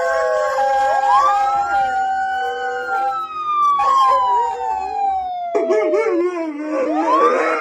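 Emergency-vehicle sirens wailing in long, slow rising and falling sweeps while canines howl along with them. About five seconds in it cuts abruptly to another siren rising, again with howling.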